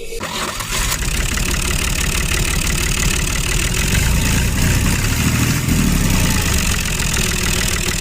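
A motor running steadily with a fast, rough, grinding pulse, then cut off abruptly near the end.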